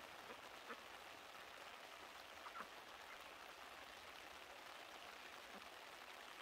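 Faint, steady hiss of light rain, with a few short, faint quacks from a flock of foraging domestic ducks.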